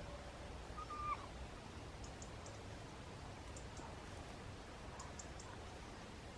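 Faint outdoor ambience with a single short bird call about a second in, and a few soft high-pitched ticks scattered through the rest.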